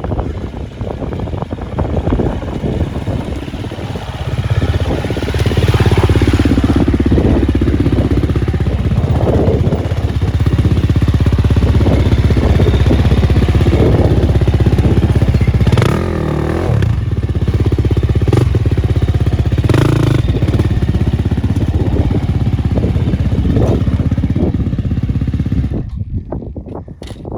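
Dirt bike engine running and revving, rising and falling with the throttle, with rattling as the bike rides over rough ground. It goes quieter near the end.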